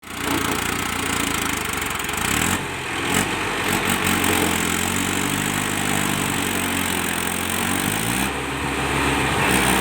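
Mahindra Arjun 555 tractor's diesel engine running steadily, its speed rising briefly about eight seconds in.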